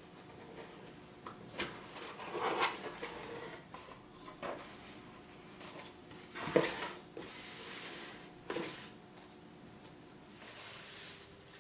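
Household handling sounds in a small room: a series of separate knocks and clatters, the loudest about halfway through, with two brief rustling hisses.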